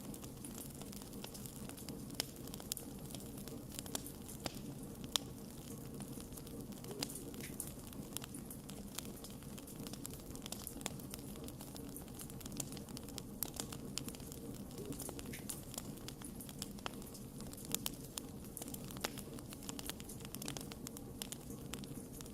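Wood campfire crackling: frequent sharp pops and snaps at irregular intervals over a steady low rush of burning.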